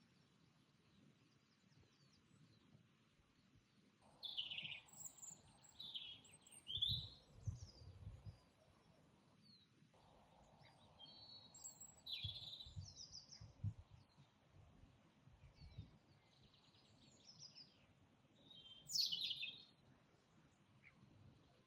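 Faint garden birdsong: after a few quiet seconds, birds sing short phrases of quick falling notes, with a rapid trill about two-thirds of the way through. A few low thumps sound underneath.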